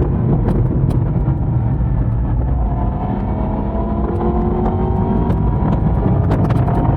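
Yamaha YZF-R1 (2022) crossplane inline-four running under way, its pitch rising gradually over the second half as the bike accelerates. Heavy wind rumble and scattered clicks on the pocket-worn microphone run under it.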